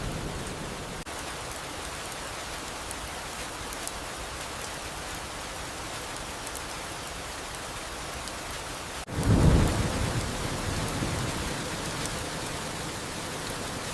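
Steady rain falling, with the tail of a thunder rumble dying away at the start. About nine seconds in, a new roll of thunder breaks in suddenly and fades over a few seconds.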